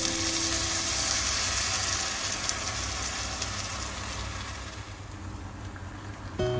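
Minced garlic sizzling in hot oil in a wok, a steady hiss that gradually dies down.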